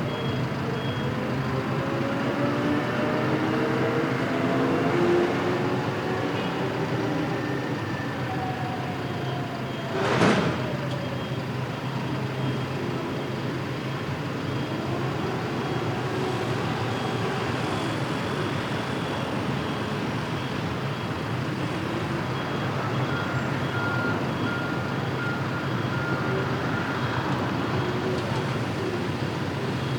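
Freight train arriving slowly, its engine and motor whine gliding in pitch over the first ten seconds, with one brief sharp burst of sound about ten seconds in. From about two-thirds of the way through, a steady repeating beep like a reversing alarm sounds over the train noise.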